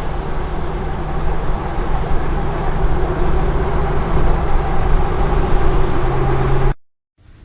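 Loud, steady rumbling roar of storm wind buffeting the microphone, with a steady low hum underneath. It cuts off abruptly near the end.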